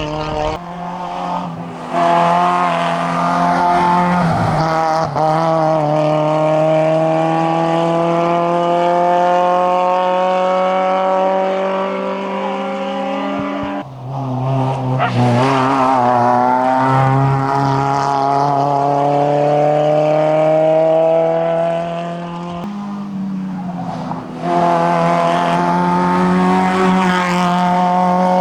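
Seat Marbella rally car's small petrol engine pulling hard at full throttle up a hillclimb, its pitch rising steadily through each gear, with two upshifts where the note drops, about halfway through and near the three-quarter mark.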